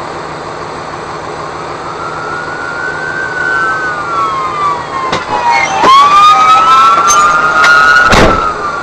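Emergency vehicle sirens wailing, their pitch sliding slowly up and down, with a second siren joining partway through and the sound growing louder as they approach. A short loud burst cuts across the sirens near the end.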